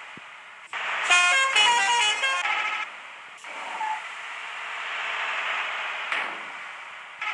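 A bus's musical horn plays a short tune of quickly changing notes for about two seconds, starting about a second in. It is followed by a steady rushing noise from the moving vehicle.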